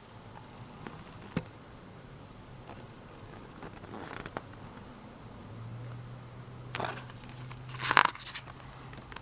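Pages of an album photobook being turned and handled: a sharp click about a second and a half in, then scattered paper rustles, the loudest near the end, over a faint low hum.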